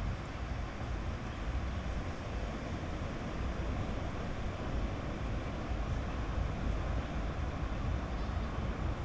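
Sea surf washing steadily onto a beach, a continuous rushing noise with a heavy low rumble underneath.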